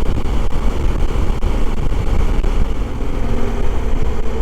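Honda Africa Twin 1100's parallel-twin engine running steadily at road speed, under a constant rush of wind noise. A faint steady engine note comes through about three seconds in.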